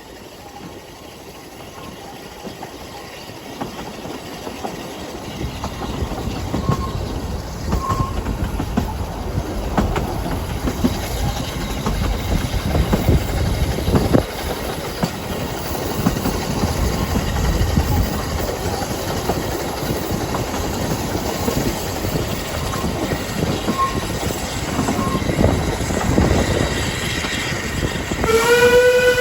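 A narrow-gauge train approaching and running past, its rumble and wheel clatter growing over the first few seconds and holding loud. About a second before the end the train sounds a long, steady-pitched note.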